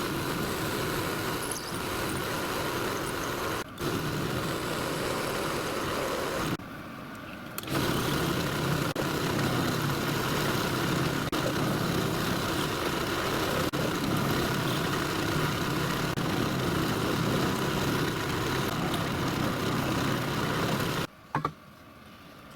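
Bench drill running while drilling 4BA fixing holes into a cast iron locomotive cylinder block, a steady motor hum with cutting noise. It drops away briefly about six and a half seconds in, then runs on and stops shortly before the end.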